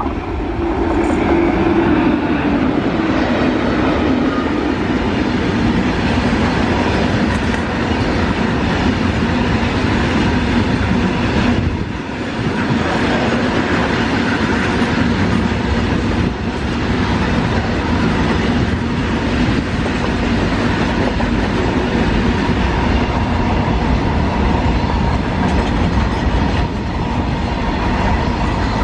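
Long freight train of covered wagons, hauled by an electric locomotive, running past close by: a loud, steady rumble and clatter of wheels on the rails. The sound swells about a second in as the train reaches the microphone.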